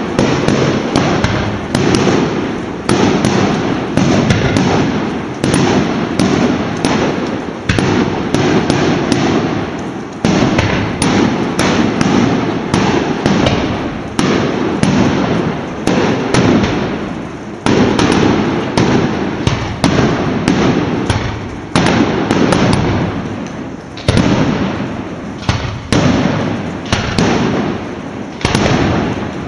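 Fireworks going off in a long barrage, about one loud bang a second, each fading out before the next.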